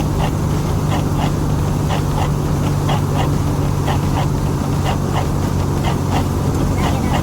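Semi-truck engine droning steadily under way, heard from inside the cab, with short sharp squeaks or clicks repeating about twice a second.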